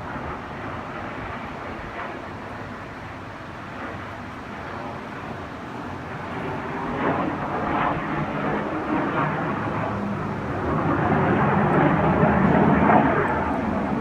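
Jet noise from Snowbirds CT-114 Tutor jets flying over, a rushing roar that builds in loudness over the second half and is loudest near the end.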